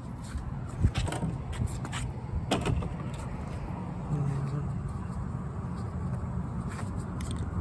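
Handling sounds from a plastic jug of motor oil being picked up and readied for pouring: a few sharp clicks and knocks, the loudest about a second in and again about two and a half seconds in, over a steady low rumble.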